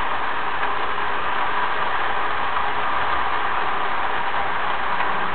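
HO scale model trains running on the layout's track: a steady whirring hiss of small locomotive motors and metal wheels rolling on the rails.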